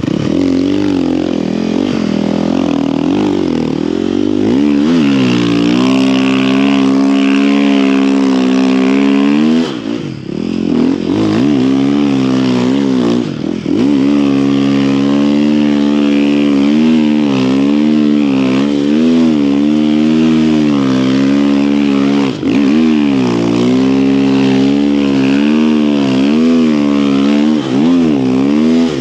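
Dirt bike engine revving up and down under constant throttle changes while riding, its pitch rising and falling, with a few brief drops as the throttle is let off.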